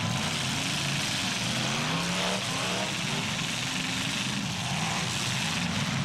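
Several demolition derby cars' engines running and revving at once, their pitches rising and falling over a steady noisy wash.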